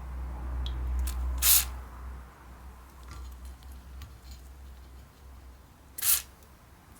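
Two short hissing sprays, about four and a half seconds apart, over a low hum that fades out about two seconds in.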